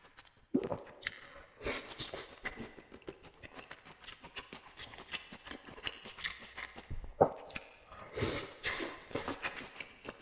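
Wet chewing and mouth smacking of a person eating shrimp and noodles in thick dark sauce: a steady run of small clicks and smacks, with a few louder wet smacks around two seconds and eight seconds in.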